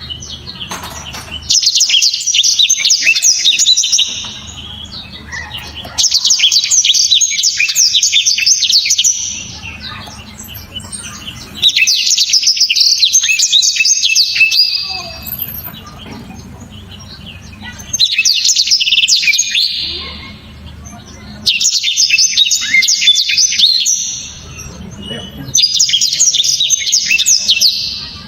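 Blackthroat (black-throated canary) singing in six loud bouts of fast, dense, high chattering notes, each about three seconds long with short pauses between.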